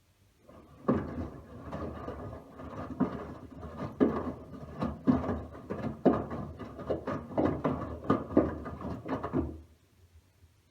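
Miele W1 washing machine drum tumbling a load of laundry: a run of about nine seconds of knocks and thuds, roughly one a second as the wash falls, that starts and stops with one turn of the drum.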